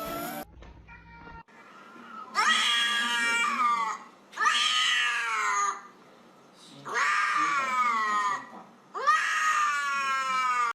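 A cat giving four long, drawn-out meows in a row, each sliding down in pitch toward its end.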